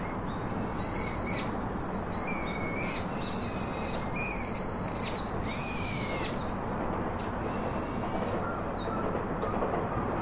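Birds calling over and over in short whistled notes, some held and some gliding down in pitch, over a steady rushing noise.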